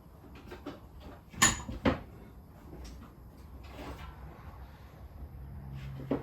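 Two sharp knocks about half a second apart, with lighter clicks and clatter around them, and a low steady hum coming in near the end.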